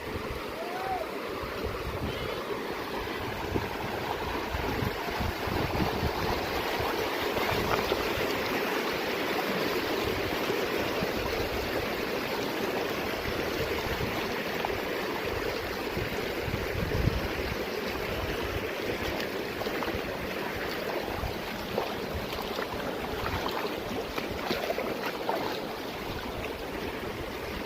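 Mountain stream flowing steadily, a continuous even hiss of running water.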